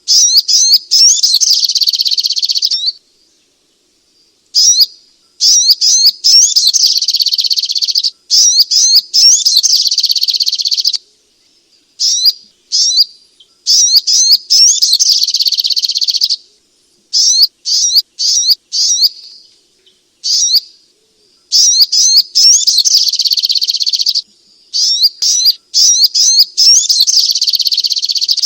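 Little spiderhunter (sogok ontong) singing: loud runs of quick, high chirping notes in phrases of one to three seconds, repeated over and over with short pauses between them.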